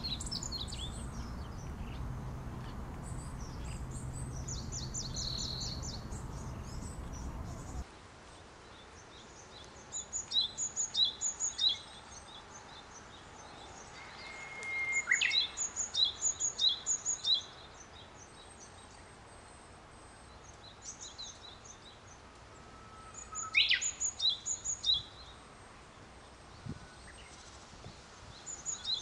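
A small songbird singing short, quick series of high repeated notes in several bursts, with a few brief gliding calls between them. A low steady rumble of background noise runs under the first part and cuts off abruptly.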